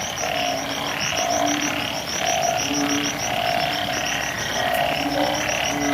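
A chorus of banded bullfrogs calling after rain: many low, droning calls overlapping and repeating about once a second. Behind them runs a fast, high-pitched pulsing chorus.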